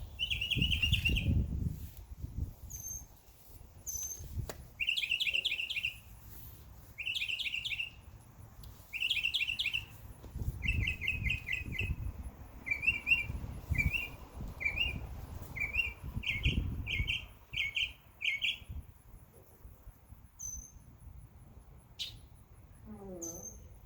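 A songbird singing short trilled phrases about every two seconds, the phrase pattern changing partway through, with a few higher chips from other birds. A low rumble comes and goes underneath.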